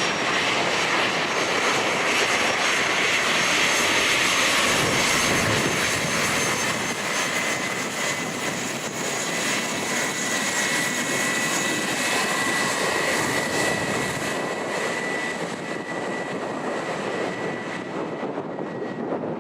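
Turbofan engines of a Bombardier Challenger 350 business jet running with a steady whine over a broad rush of noise, slowly fading over the last few seconds. Wind noise on the microphone mixes in.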